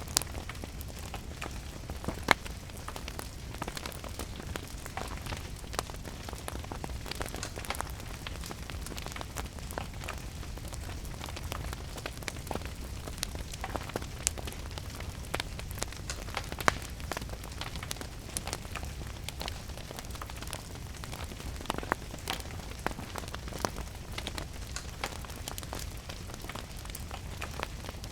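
Wood fire crackling with scattered sharp pops over a steady hiss of rain, with a low rumble underneath.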